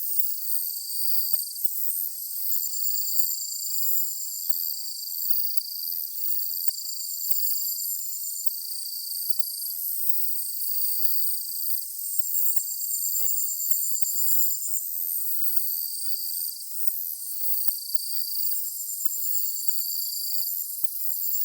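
Chorus of several chirping insects singing together: high, pulsed trills of about one to two seconds each, overlapping at several different pitches and repeating without a break.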